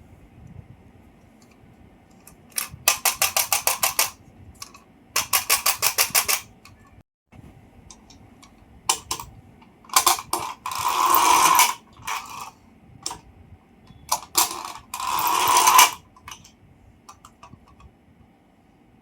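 A small mechanism ratcheting in four short bursts. The first two are rapid, evenly spaced clicking, about seven clicks a second; the last two, near the middle and toward the end, are rougher and more rasping, with scattered single clicks between the bursts.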